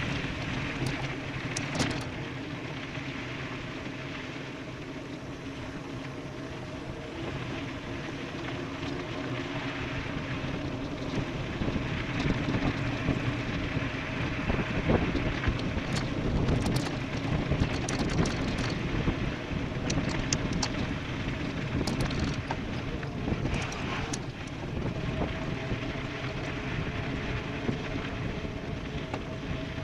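Wind rushing over the microphone and tyres rolling on a gravel road during a fast e-bike descent, with a steady hum under it and scattered small clicks and rattles. It gets louder about halfway through.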